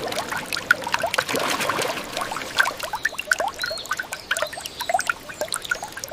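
Water trickling and splashing, with many small plops and bubbly drips over a steady hiss.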